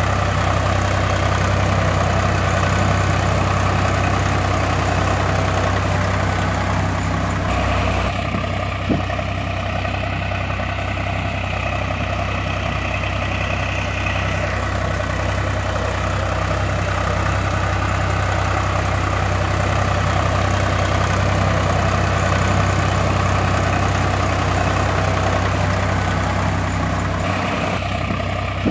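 Heavy diesel machinery engine running steadily with a low, even throb, its tone shifting about a third of the way in and again near the end as the machine works.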